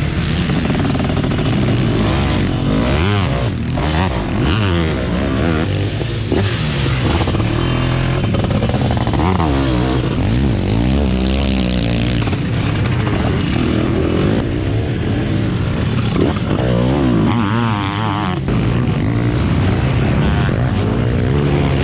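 700cc two-stroke Zabel sidecarcross engines revving hard, their pitch climbing and dropping again and again as the throttle is opened and closed. At times more than one machine is heard at once.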